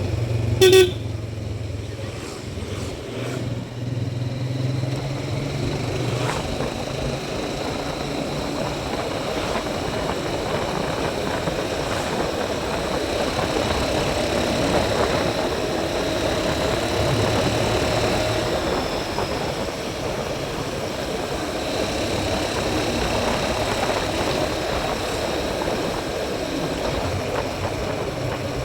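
Motorcycle engine running while riding, under a steady rush of wind noise. A short, loud beep comes about a second in.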